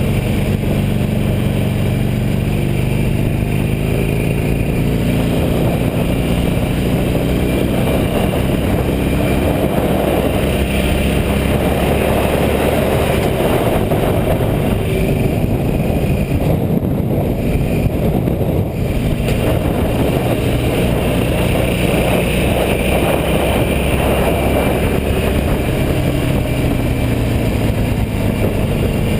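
Car driving along a road: steady engine and road noise, with the engine note drifting gently up and down as speed changes.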